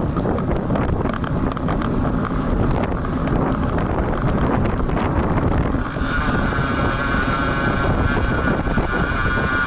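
Strong wind rumbling on the built-in microphone of a bike-mounted action camera while riding in a gusty rainstorm. About six seconds in, a steady high-pitched whine joins the wind noise.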